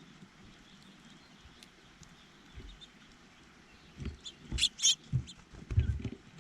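Birds at a feeder close to the microphone: after a quiet stretch, a run of sharp taps and low knocks with a few short, high chips starts about four seconds in.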